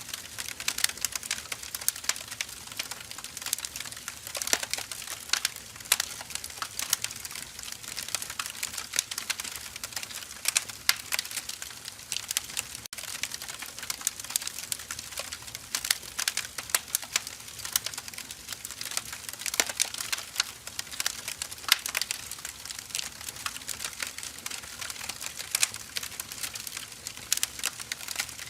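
Burning firewood crackling, with frequent irregular sharp pops and snaps over a soft hiss.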